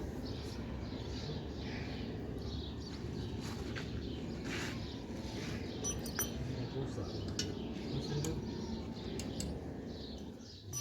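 Birds chirping in short scattered calls over a steady low rumble, with a few sharp clicks about six to eight seconds in.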